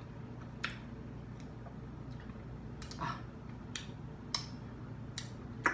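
Close-up chewing of breaded fried shrimp: about six short, sharp crackles and mouth clicks at irregular intervals.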